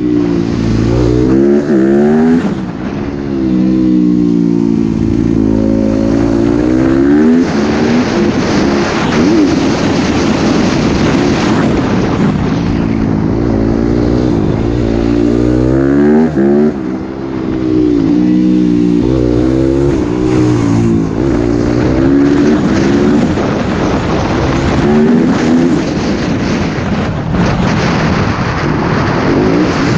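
Motocross bike engine revving hard and backing off over and over, its pitch climbing and dropping every few seconds as the rider accelerates and eases off.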